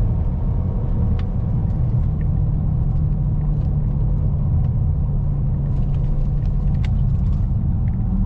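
Ford Escape's 2.0L EcoBoost turbocharged four-cylinder under hard acceleration, heard inside the cabin as a steady low engine and road rumble during a 0-60 run.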